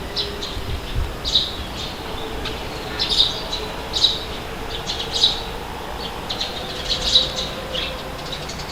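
Birds calling outdoors, short harsh calls repeating about once a second, over a low rumble of wind.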